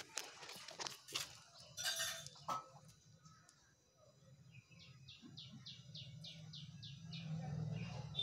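A bird calling in a quick run of about ten short, high chirps, a few a second. A few sharp clicks and brief rustling noises come in the first couple of seconds, and a low hum grows louder near the end.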